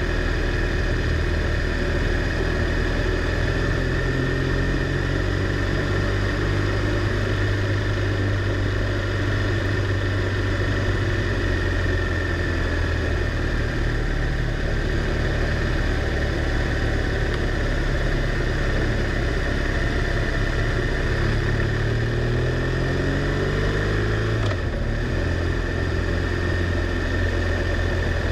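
BMW R1200R LC's boxer twin engine running on the move, heard over steady wind and road noise. Near the end it accelerates, its pitch rising, then drops abruptly and settles lower.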